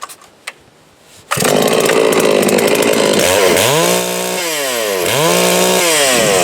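A large two-stroke chainsaw restarting hot: after a couple of faint clicks it catches about a second in and runs. It is revved up, held and let back down twice. It restarts readily, the sign of a sound low-speed carburettor tune with no air leak.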